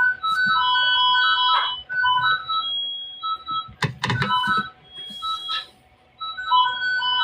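A simple electronic melody of short beeping tones, like a ringtone or jingle, with a few knocks or taps about four seconds in.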